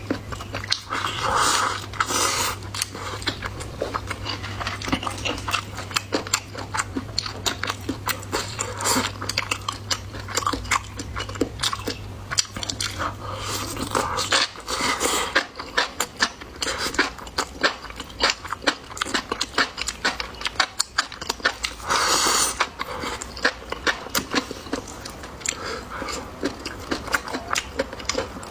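Close-miked chewing and biting: a person eating, with dense irregular wet mouth clicks and smacks.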